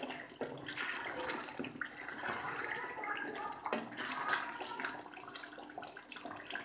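Beef karahi sizzling and bubbling in a steel karahi as it is fried and stirred, with small scrapes and taps of the spoon against the pan.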